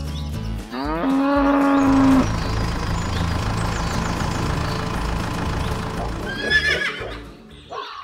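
A cow mooing: one long, low moo about a second in. It is followed by a steady noisy rumble for several seconds and a short, high wavering call near the end.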